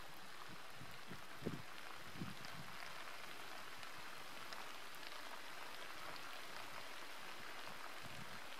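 Steady rain falling, an even hiss, with two soft low thumps about one and a half and two seconds in.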